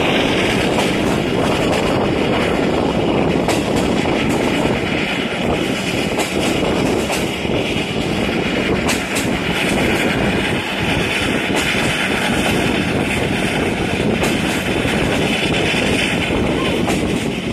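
Passenger train coach running along the rails, heard from an open carriage window: a steady, noisy rumble of wheels on track with occasional faint clicks.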